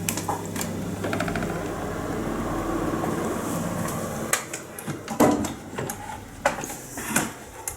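Midea split air conditioner's indoor unit starting up: a steady motor whir as its louver flap opens, then several sharp clicks from about halfway through.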